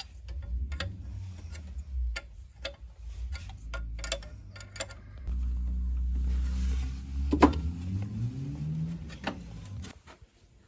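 A motor runs with a low hum that rises in pitch shortly before it stops near the end, among scattered sharp clicks and knocks.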